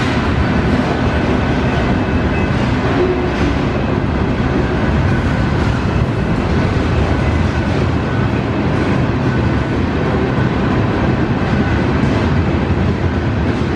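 Union Pacific freight train's cars rolling past at close range, a steady loud rumble and rattle of wheels on rail.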